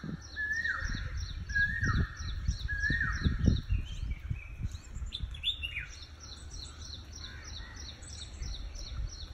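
Birds calling: a clear call that drops in pitch, repeated four times in the first few seconds, over quick high chirps that repeat several times a second. Low rumbling and knocks sit underneath, loudest in the first four seconds.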